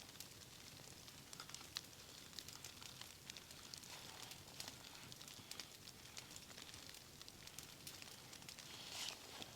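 Wood campfire crackling faintly, with scattered small pops and snaps over a soft hiss.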